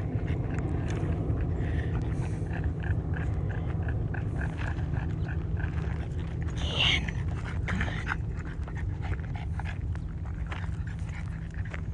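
Dog panting in quick, even breaths over a steady low rumble, with one brief higher-pitched sound about halfway through.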